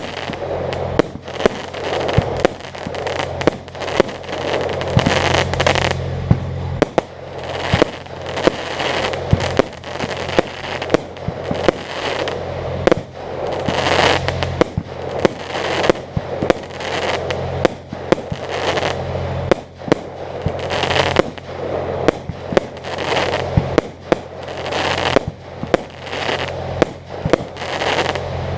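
Fireworks display going off in a rapid, irregular string of sharp bangs with crackling after them. A steady low hum runs underneath for part of the time.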